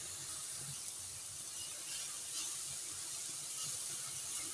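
Shredded cabbage, capsicum and carrot sizzling in oil in a stainless steel pan, a steady hiss, with a few soft scrapes of a silicone spatula stirring them.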